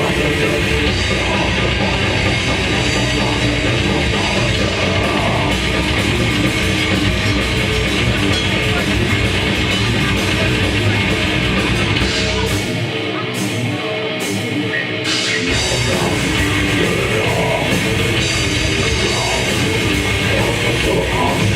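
Live death metal band playing: distorted guitars, bass and drums at full volume. Roughly halfway through, the bass and kick drum drop out for about three seconds, leaving the guitars alone, and then the full band comes back in.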